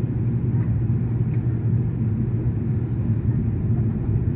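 Passenger airliner's steady low rumble of engines and airflow, even and unchanging.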